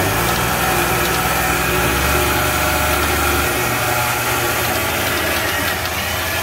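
Car engine running steadily, its low hum shifting in pitch about three and a half seconds in.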